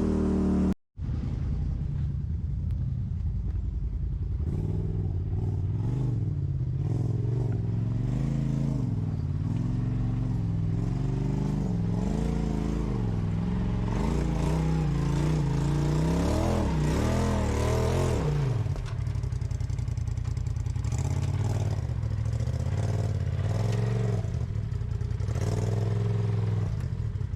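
Off-road vehicle engine working over rocks, revs rising and falling in short blips, climbing highest late in the middle before settling to a steadier idle. There is a brief cut in the sound about a second in.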